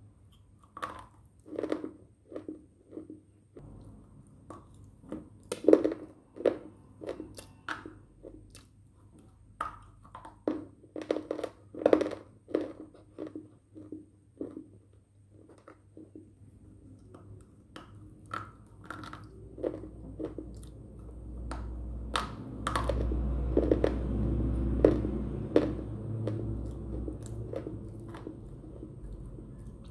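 Close-up crunching and chewing of colourful slate sticks: sharp, crisp bites and crunches in irregular clusters. A low rumble builds up in the second half.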